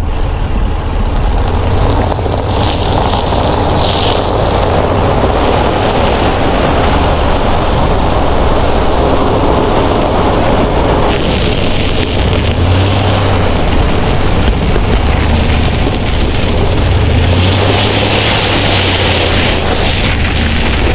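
Ram 1500 pickup climbing an icy, snow-covered hill: engine running under load with steady tyre noise over snow and ice, swelling a couple of times.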